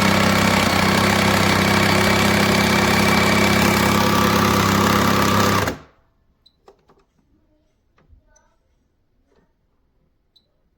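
Breville Barista Touch Impress espresso machine running during a milk-frothing attempt, a loud steady buzzing hum with hiss, then cutting off suddenly about six seconds in. Afterwards only a few faint clicks and knocks.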